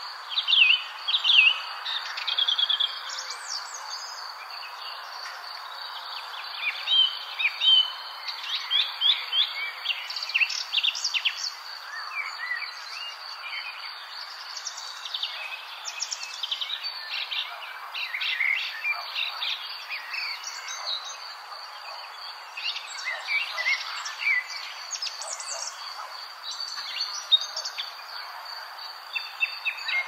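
Several songbirds chirping and calling in quick, short notes and rising and falling glides, busiest from about eight seconds in, over a constant high-pitched tone and a faint background hiss.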